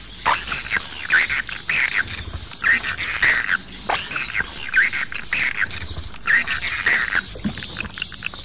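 Swiftlets twittering in a dense, overlapping chatter of short chirps, with a thin high whistle running over it. This is a 'jaguar'-style swiftlet call recording of the kind played to lure swiftlets into a nesting house.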